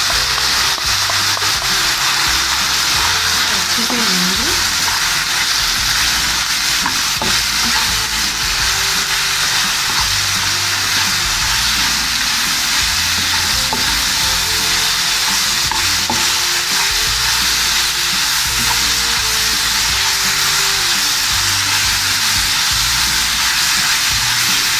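Diced chicken sizzling steadily in hot oil in a pan while a spatula stirs and turns the pieces, with light scraping against the pan.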